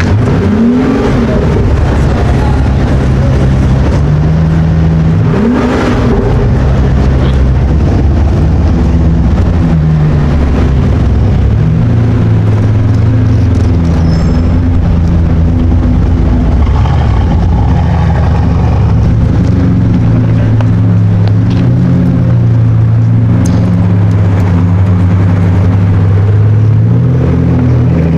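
A performance car's engine running loud, revved up twice in quick rises near the start, then holding a steady low drone whose pitch steps up and down.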